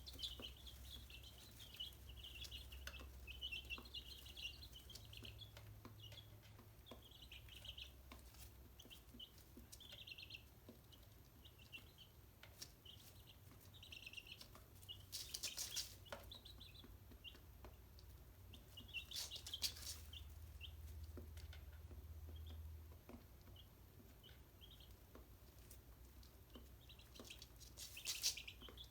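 Chicks peeping: many short, high chirps repeating throughout, faint, with a few brief scratchy noises in the middle and near the end.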